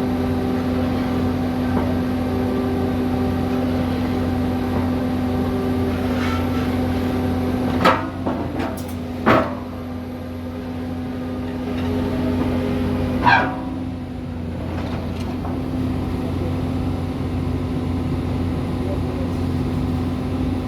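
Heavy construction machine's diesel engine running steadily. Three sharp, brief knocks or clanks come about 8, 9½ and 13 seconds in; the last one trails off with a falling pitch.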